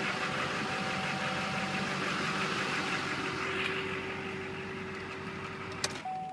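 Chevrolet Duramax diesel engine idling steadily and smoothly just after a start with its glow plugs cycled. A sharp click comes near the end, and the engine noise drops away right after it.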